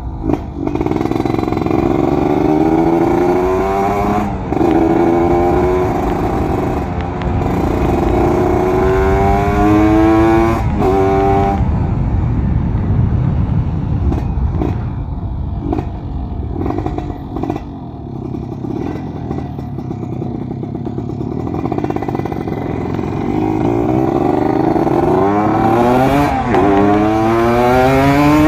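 Kawasaki Ninja RR 150's single-cylinder two-stroke engine, ported and on a 34 mm carburettor, pulling hard through the gears: the pitch climbs in each gear and drops at each upshift. Through the middle it holds a steadier, lower note with a few brief breaks, then climbs through the gears again near the end.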